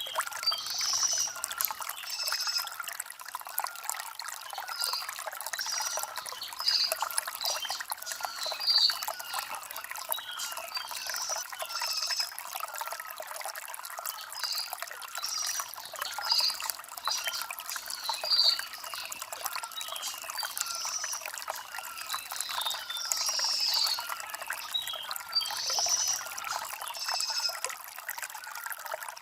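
Shallow stream water trickling and babbling over stones: a steady bubbling and splashing with many small rapid gurgles and short bright splashes.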